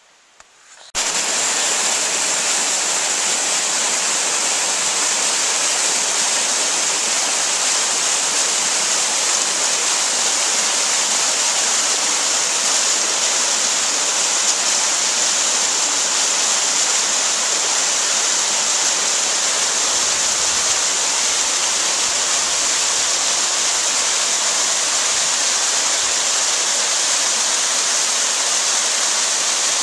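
A steady, even rushing noise, strongest in the high hiss range, that starts abruptly about a second in and holds unchanged; no engine note is heard.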